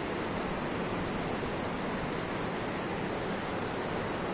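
Steady rush of falling water, an even hiss with no pauses or changes.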